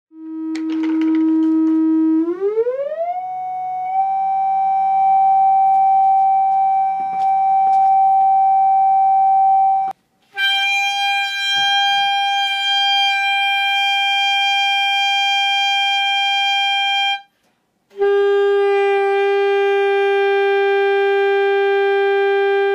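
Saxophone playing long held single notes: a low note sliding up about an octave and holding, then a high note, then a middle note, with short breaks between them.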